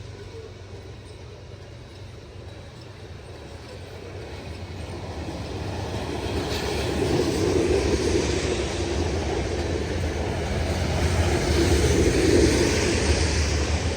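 Freight train passing at speed: a low rumble that grows louder from about four seconds in and stays loud.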